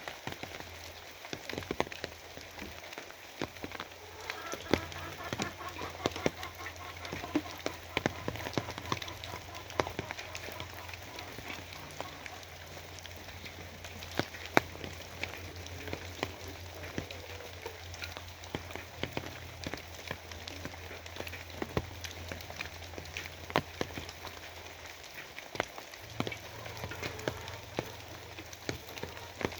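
Steady rain with many sharp, close drops striking a surface, over a low steady hum that drops out briefly near the end.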